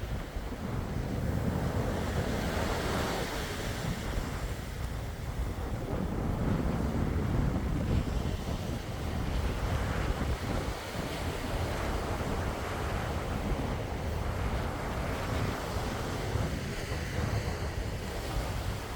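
Sea waves washing ashore in continuous surf that swells and eases every few seconds, with wind rumbling on the microphone.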